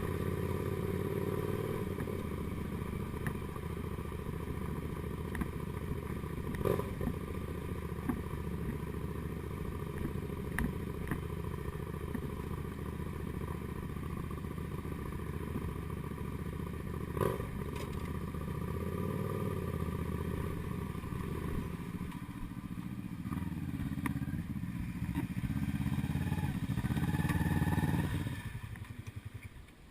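Kasinski Comet GTR250's 250 cc V-twin running as the motorcycle is ridden, with sharp knocks about a third and about halfway through. The engine grows louder towards the end, then the sound falls away sharply just before the end.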